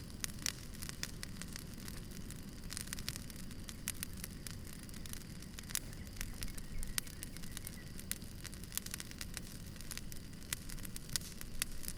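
Wood campfire crackling, with many sharp, irregular pops and snaps over a low, steady rumble of the burning fire.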